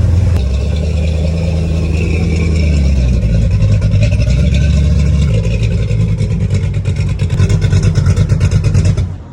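Dirt race car's engine idling loud with an uneven, pulsing beat, then cutting off suddenly near the end.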